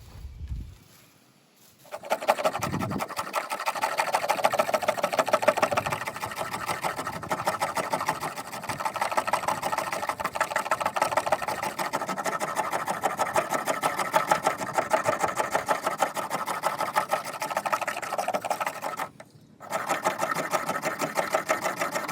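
Spine of a stainless steel Mora Companion knife scraping quickly and steadily along a wooden board, taking off fine scrapings and wood dust for a tinder bundle. The rapid strokes stop briefly near the end, then start again.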